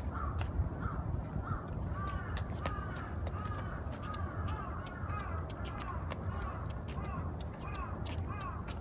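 Crows cawing over and over, about two caws a second; from about two seconds in, a second crow's caws overlap the first. A steady low rumble and scattered sharp clicks run underneath.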